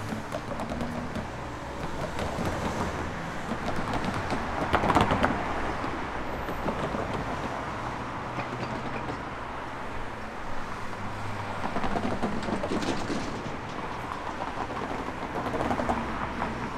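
Road vehicles and a suburban electric train passing at a railway level crossing: a steady noise that swells louder about five seconds in.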